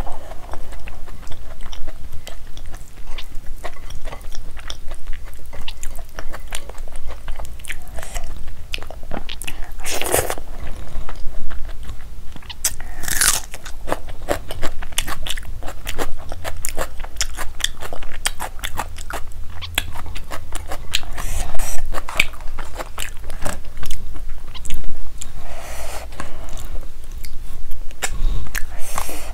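Close-miked chewing, smacking and wet mouth sounds of a person eating rice and curry by hand, with crunchy bites of raw onion.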